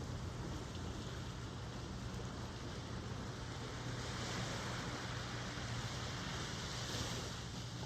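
Ocean waves washing on the shore: a steady hiss of surf with a low rumble beneath. A wave swells louder about halfway through and eases off near the end.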